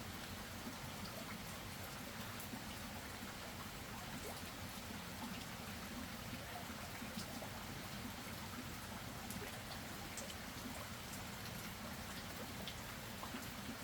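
Steady rain falling, with scattered faint drip ticks.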